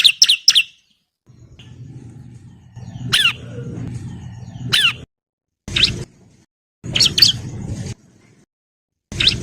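Bar-winged prinia (ciblek) calling: a fast run of sharp, downward-slurred notes that stops within the first second, then single downslurred chirps every second or two. The calls sit in spliced recording segments with a low background rumble that cuts in and out abruptly.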